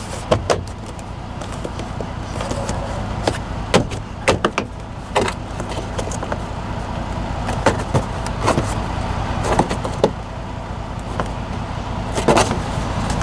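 Plastic door trim panel being handled and pressed back into place, its clips clicking and knocking into their slots at irregular moments, with a cluster of louder clicks near the end. A steady low hum runs underneath.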